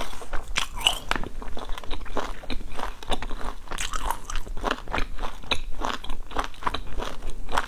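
A person biting and chewing latiao, Chinese spicy gluten strips: rapid, irregular crunching clicks several times a second.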